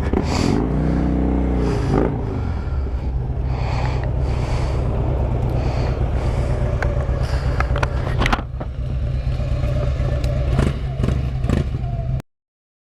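Harley-Davidson Road Glide V-twin engine running with a steady low rumble. The engine note briefly dips and rises about a second in, and there are a few sharp clicks. The sound cuts off abruptly near the end.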